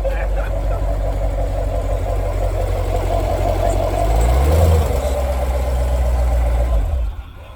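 C7 Corvette Grand Sport's 6.2-litre V8 idling, given one short rev about four seconds in that rises and falls back to idle. It is then shut off about seven seconds in.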